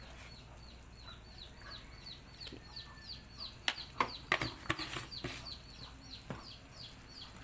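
A bird chirping steadily in the background: short high falling chirps, about four a second. Several sharp clicks and knocks around the middle come from a container and utensils being handled at the pot while salt is added.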